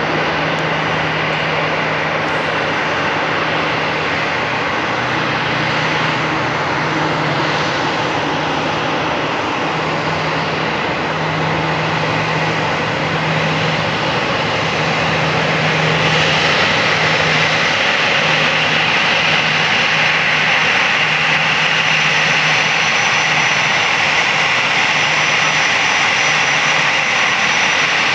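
Airbus A340-300 jet engines (four CFM56 turbofans) running in a steady roar with a high whine. The sound grows louder about halfway through as the airliner comes closer.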